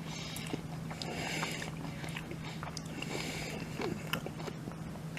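A person chewing a mouthful of salmon poke bowl close to the microphone, with small wet mouth clicks over a steady low hum.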